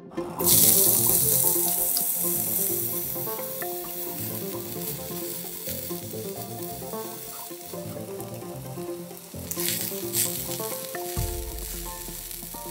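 Chopped aromatics hitting hot oil in a miniature wok: a loud sizzle starts suddenly and slowly dies down as they are stirred with chopsticks. About ten seconds in the sizzle flares up again as diced vegetables are added.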